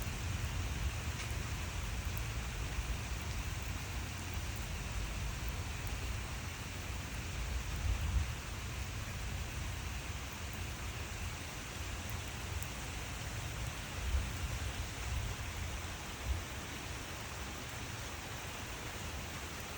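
Steady rain falling in a thunderstorm, with a low rumble underneath that swells briefly a few times.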